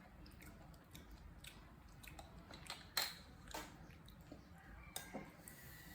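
Faint wet smacking and small clicks of a monkey eating porridge, with a sharper click about three seconds in.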